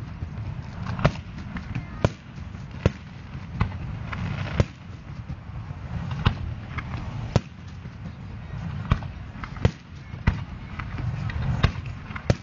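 Aerial fireworks shells bursting: about a dozen sharp bangs at uneven intervals over a steady low background.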